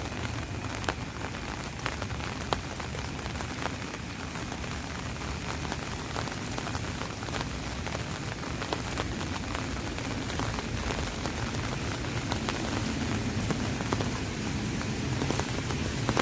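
Rain falling on an umbrella overhead: a steady hiss dotted with many small, sharp drop ticks.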